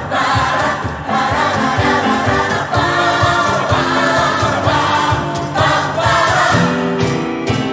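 Gospel mass choir singing held chords in harmony over a band with a steady drum beat.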